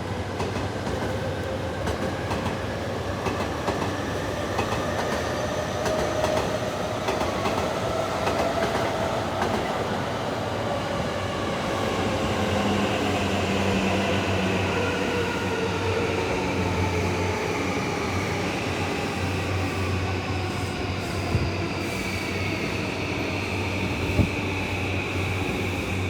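E217-series electric commuter train pulling into a station and braking, its motor whine gliding slowly down in pitch over the running noise, with two short knocks near the end.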